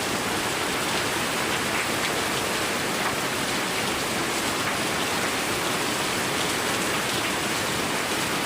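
Heavy, steady rain pouring down and pattering on surfaces, an even dense hiss of a downpour.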